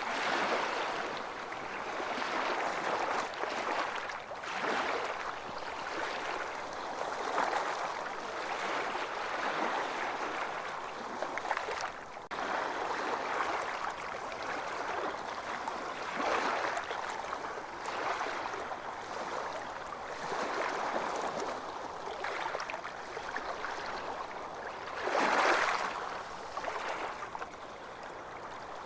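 Ocean waves washing onto a beach, each swell rising and falling away every few seconds, with the loudest wash near the end.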